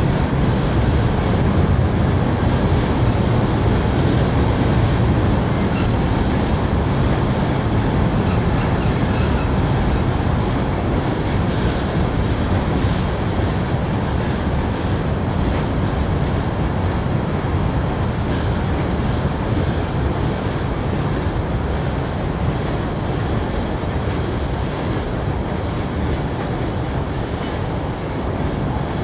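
Freight train of tank cars rolling across a steel trestle bridge: a steady deep rumble of wheels on rail with clatter over the rail joints. A faint high wheel squeal comes in for a few seconds about a quarter of the way through.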